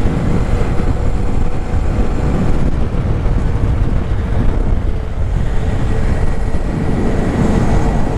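Wind rushing and buffeting over a helmet-mounted microphone while riding at steady speed, with the Honda Grom's small single-cylinder engine holding a steady hum underneath.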